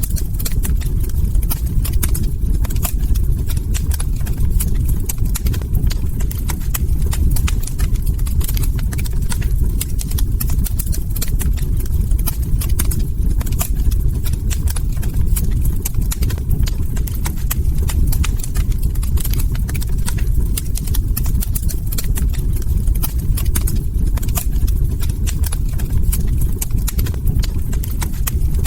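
Log fire burning in a hearth: a steady low rumble of flames with dense, irregular wood crackles and pops throughout.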